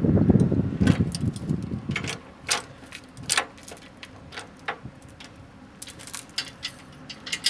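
Metal tow-rigging hardware clinking and rattling in a run of irregular sharp clicks. A low rumble fills the first two seconds.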